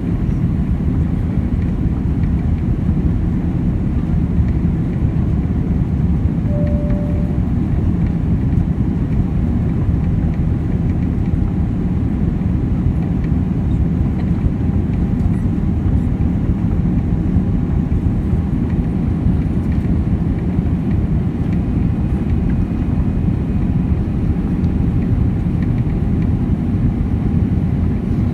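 Steady rumble of a Boeing 787's engines and airflow heard from inside the passenger cabin, with a faint short tone about seven seconds in.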